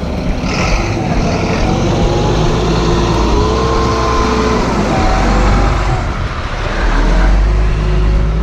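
Heavy tow truck's engine running steadily with a deep rumble, and a faint whine that rises and falls slightly in pitch.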